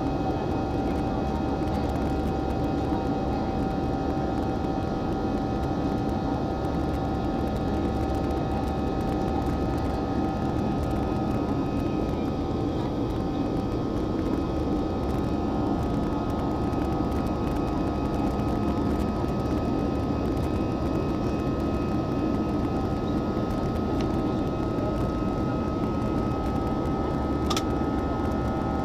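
Steady cabin noise inside a jet airliner: a constant rumble of engines and airflow with a few steady whining tones over it. A short click sounds near the end.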